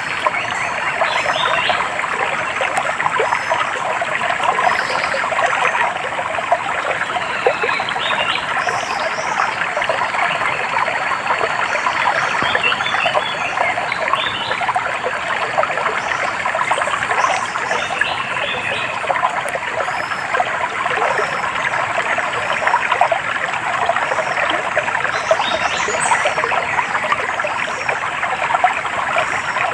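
Small stream trickling and babbling steadily, with short high bird chirps breaking in now and then above it.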